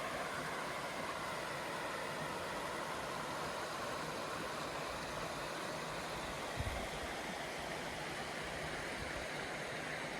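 Steady rushing water of a river running alongside, with a single low thump about two-thirds of the way through.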